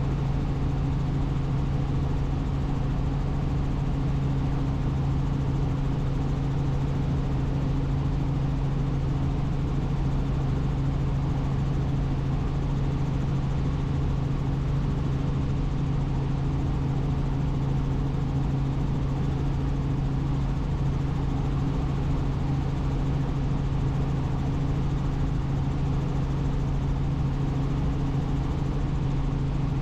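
Helicopter in steady cruising flight: the continuous drone of its engine and rotor, with a strong low hum holding one pitch throughout.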